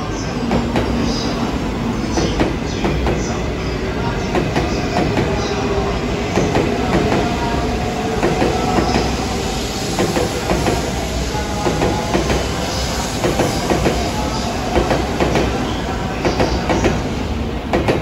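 JR East E2 series Shinkansen pulling out of the station and running past, its wheels clacking over the rail joints and points amid a steady rumble, with some squealing tones.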